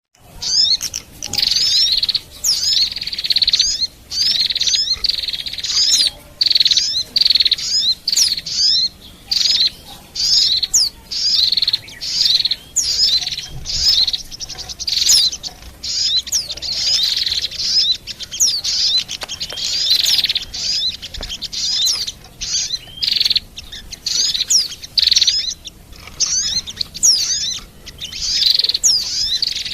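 A bird-lure call track of small songbirds: white-eye (pleci), sunbird (kolibri) and prinia (prenjak). It plays as dense, high, rapid chirps and twittering trills in phrases of about a second, with short breaks between them, used to draw these birds into a trap.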